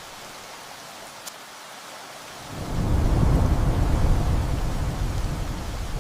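Steady heavy rain, with a deep rumble of thunder rolling in about two and a half seconds in, swelling and then slowly fading toward the end.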